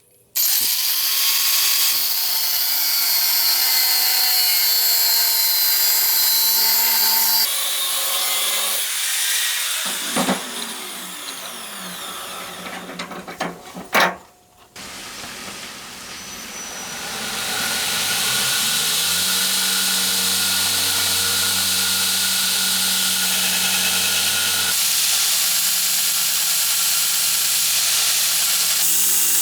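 An electric power tool working scrap steel. Its motor spins up with a rising whine and runs steadily under load, slows down with a falling pitch about a third of the way in, then spins up again and runs steadily to the end.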